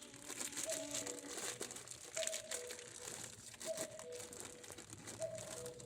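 A bird repeats a falling two-note call about every second and a half, over scattered sharp crackles and rustling.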